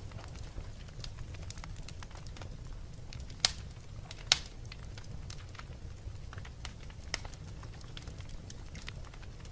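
Wood fire burning in a fireplace: a steady low rumble of flames with scattered crackles, and two sharp, louder pops about three and a half and four and a half seconds in.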